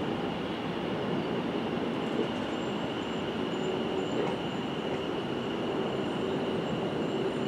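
Electric multiple unit train running in along the platform: a steady rumble of wheels on rail with a thin high whine throughout, and a lower hum that joins about three seconds in.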